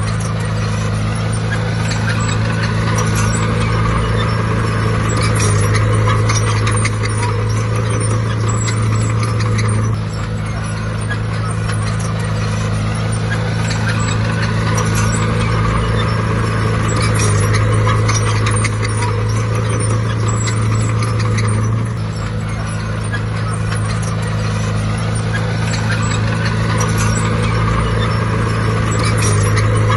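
Bulldozer's diesel engine running hard, with steady engine hum and a busy clicking rattle over it. The engine note drops suddenly twice, about ten seconds in and again about twenty-two seconds in, then builds back up.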